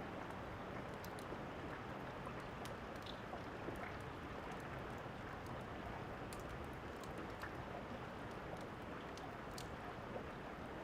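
Steady rain falling, with scattered sharp crackles and pops of a wood fire over it.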